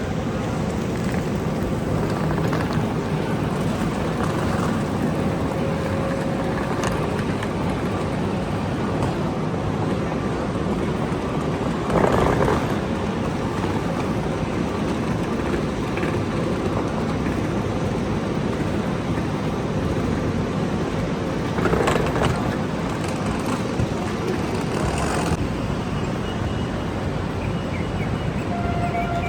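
Steady rumbling noise of an electric passenger train at a station platform, with a few short louder knocks.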